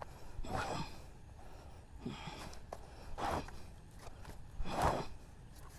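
A person breathing hard with effort: four heavy, breathy exhales about a second and a half apart.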